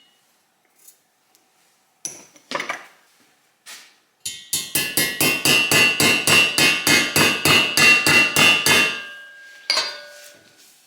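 Hammer striking metal: a few separate clinks, then a steady run of rapid ringing taps, about five a second for nearly five seconds, and a last knock near the end.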